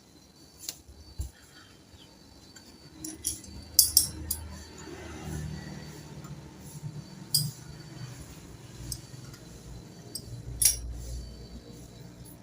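Metal tools and refrigeration hose fittings being handled, giving a handful of sharp clinks and taps over a faint low hum.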